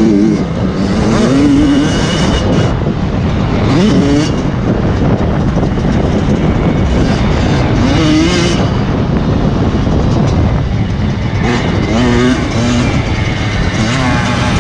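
Motocross motorcycle engines running and revving over a steady low rumble, their pitch rising and falling several times.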